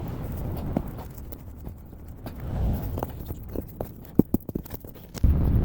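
Wind rumbling on the microphone, with a run of sharp clicks and knocks about three and a half to five seconds in; the rumble grows louder near the end.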